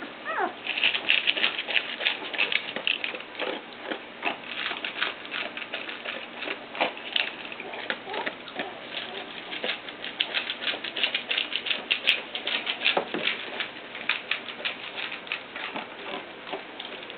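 Puppies about three weeks old making a dense, irregular run of small clicks and patters, with one brief falling squeak near the start.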